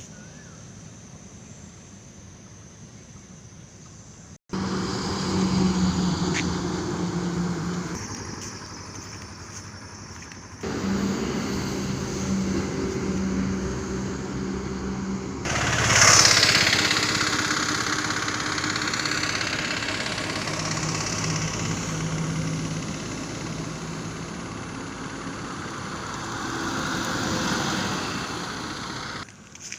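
Heavy trucks running along a highway, engines humming steadily over tyre noise, in several joined clips. The loudest moment is a truck passing close about sixteen seconds in, its pitch falling away as it goes by.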